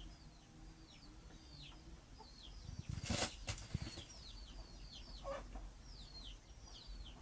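Chicks peeping: a steady run of short, falling chirps, several a second, with a brief noisy burst about three seconds in.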